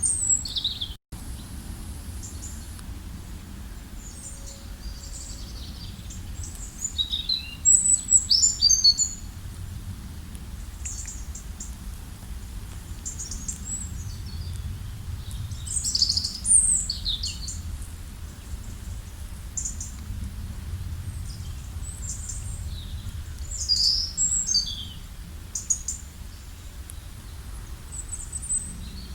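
Songbirds chirping and singing in short clusters of high phrases, over a steady low rumble. The sound cuts out for an instant about a second in.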